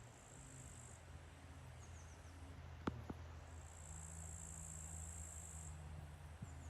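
Crickets trilling faintly in high-pitched stretches over a steady low hum, with a sharp click about three seconds in.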